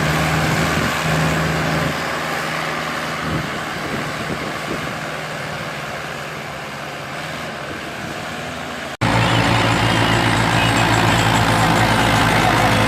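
Diesel tractor engine running under load as it hauls a loaded sugarcane trolley, slowly fading. After an abrupt cut about nine seconds in, another tractor engine runs louder and lower.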